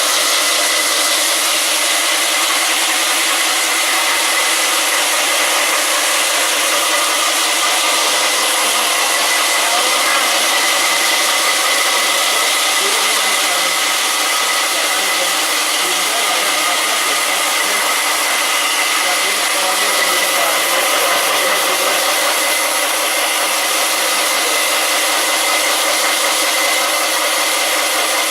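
Stone-working machinery running with a steady loud drone and a high steady whine.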